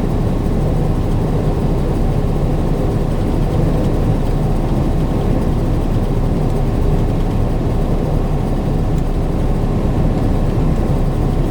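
Steady low rumble of a truck heard from inside its cab, even in level throughout.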